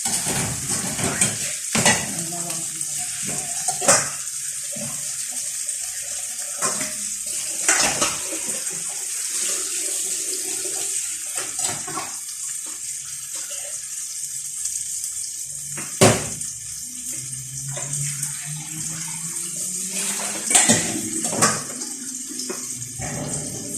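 Tap water running as sliced fava beans are rinsed of the salt water they were soaked in, with scattered sharp clinks of a bowl or pot, the loudest about 16 seconds in.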